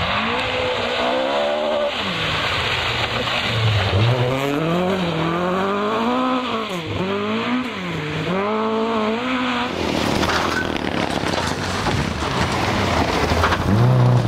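Rally car engine revving hard, its pitch climbing and dropping again and again as the driver works the throttle and gears, over a rushing noise of tyres on the stage. About ten seconds in, the engine note gives way to a rushing noise, and near the end another engine note rises.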